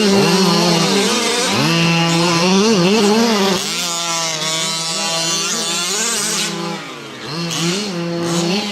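Small two-stroke gas engines of several HPI Baja 5T 1/5-scale RC trucks revving up and down, their overlapping pitches rising and falling as the trucks throttle and back off. The sound is loudest in the first few seconds, then eases off, with a brief dip about seven seconds in.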